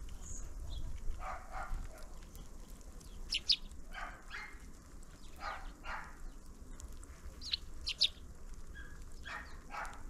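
Small birds at a winter feeder giving short, high chirps every few seconds. Lower, rough calls or barks come between them several times.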